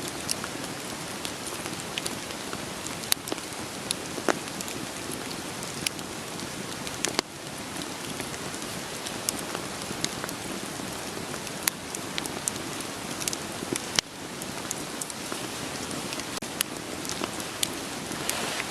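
Steady rain hiss with the irregular sharp crackles and pops of a wood fire burning.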